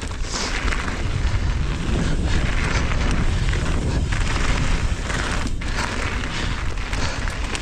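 Strong wind buffeting the microphone, a heavy steady rumble, mixed with the tyre and rattle noise of a mountain bike riding a dirt trail.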